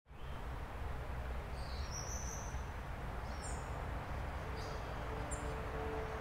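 Outdoor ambience: a few short, high bird chirps over a steady low rumble and hiss.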